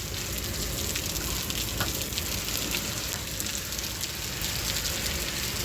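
Steady rain falling, a dense even hiss of many small drops pattering on surfaces.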